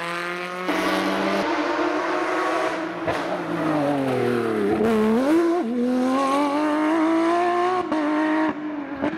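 Porsche 911 rally car's flat-six engine running hard at high revs. About halfway through the revs drop sharply, then climb again and hold high as the car accelerates away.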